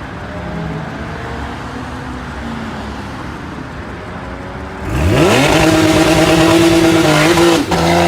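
Car engine running steadily, then revving hard about five seconds in, its pitch climbing quickly and holding high. Near the end it breaks off briefly, then climbs again.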